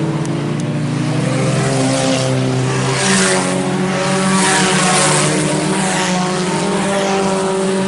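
Several IMCA Sport Compact race cars' four-cylinder engines running hard at racing speed, with the sound swelling twice as cars pass by.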